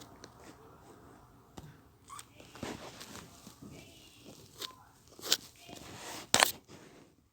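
Scattered clicks, taps and rustling of objects being handled, with two sharp, loud clicks near the end; faint voices in the background.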